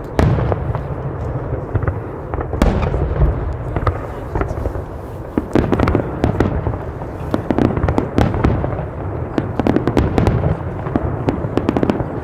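Fireworks going off in quick succession: repeated bangs over a continuous low rumble, with a dense run of sharp crackling pops near the end.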